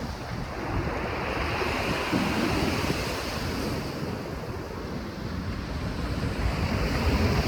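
Sea waves washing onto the shore, swelling and easing, with wind buffeting the microphone.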